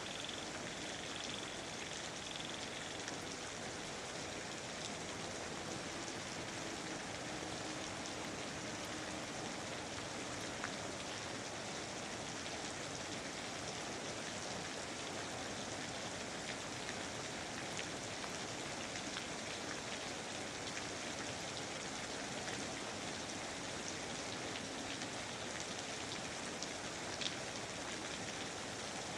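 Steady rain falling, an even hiss with scattered individual drops ticking, the odd one louder, as around 11 and 27 seconds in.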